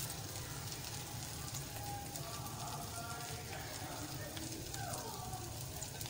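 French toast (bread slices soaked in egg and full-cream milk) sizzling in a little oil in a frying pan, a steady crackle with fine pops.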